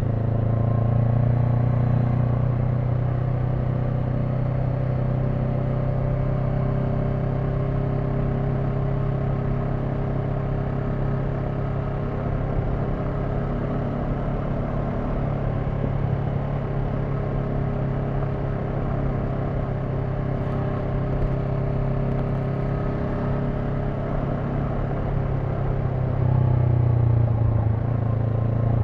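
Honda NX500's parallel-twin engine running at a steady cruise under way, with road and wind noise. It rises in pitch about a second in, and gets louder near the end as the throttle opens.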